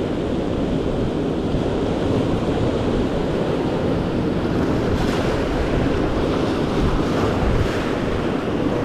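Ocean surf washing steadily, with wind rumbling on the microphone; a few brief hissing wave washes stand out about five seconds in and again near the end.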